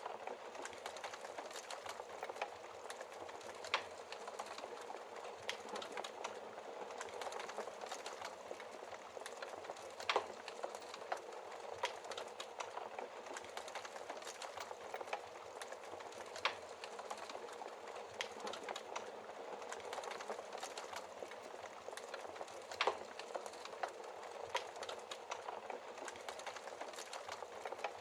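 Wood fire in a fireplace crackling steadily, with frequent small pops and a few louder snaps spread through.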